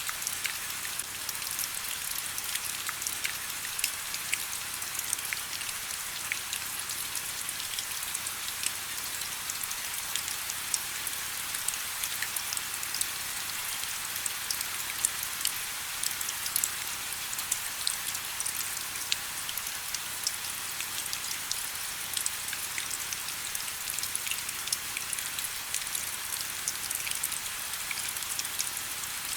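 Steady rain: an even hiss with many separate drops ticking sharply all through.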